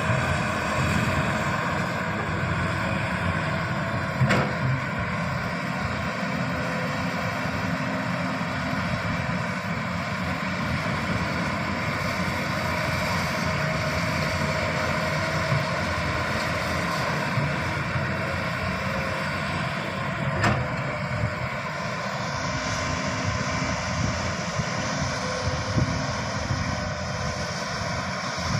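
Heavy earthmoving machinery, an excavator's diesel engine, running steadily under working load. Two sharp knocks sound over it, one about four seconds in and one about twenty seconds in.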